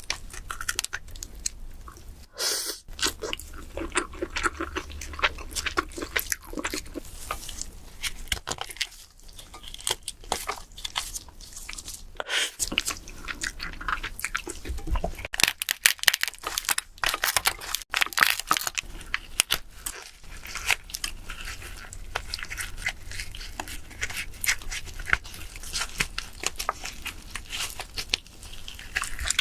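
Eating king crab: continual crunching, tearing and chewing, heard as many small irregular crackles and clicks.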